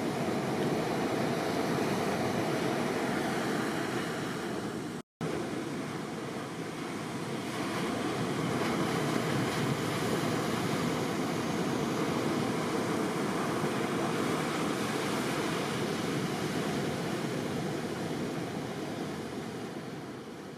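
Ocean surf from a typhoon swell, washing steadily, with a brief total dropout about five seconds in.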